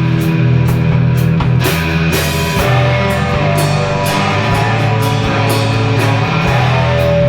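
Live indie rock band playing: electric guitars holding chords over bass, with a drum kit keeping a steady beat of cymbal and drum hits.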